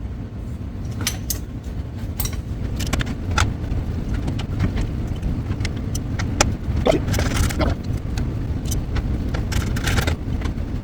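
Metal clicks, clinks and rattles of tools and parts being handled as a power window motor is refitted into a car door, over a steady low rumble.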